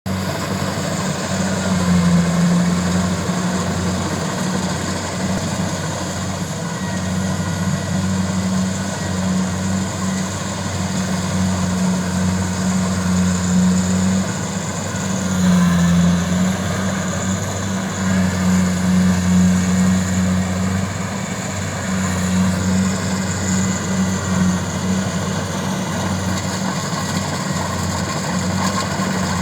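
Kubota rice combine harvester running, its diesel engine giving a steady drone that swells a little in loudness now and then.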